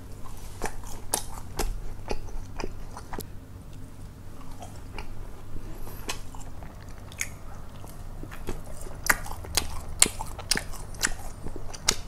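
Chewing and biting into crispy fried McDonald's chicken nuggets, with scattered crunches and mouth clicks. There is a run of sharper crunches around nine to eleven seconds in.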